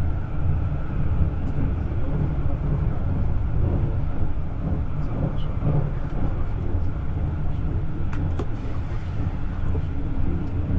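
Passenger train running at speed, heard from inside the carriage: a steady low rumble, with a few faint clicks about eight seconds in.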